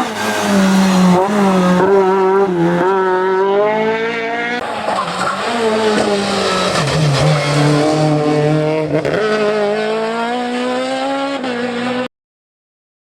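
VW Scirocco race car's engine at full throttle on a hillclimb run, its pitch climbing and falling back again and again through gear changes and lifts. The sound cuts off abruptly about twelve seconds in.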